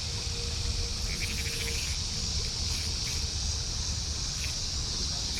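Insects chirring steadily in a continuous high chorus, with a low rumble underneath.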